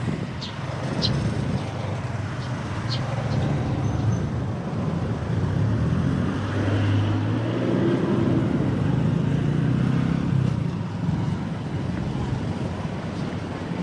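Street traffic: vehicle engines running close by, one growing louder and passing about halfway through, with a few short high clicks in the first three seconds.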